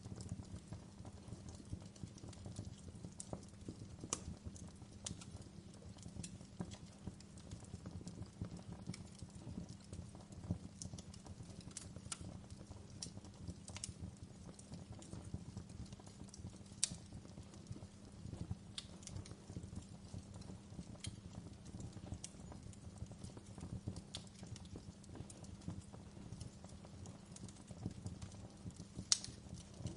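Fireplace crackling: irregular sharp pops and snaps, a few louder than the rest, over a steady low rumble of the fire.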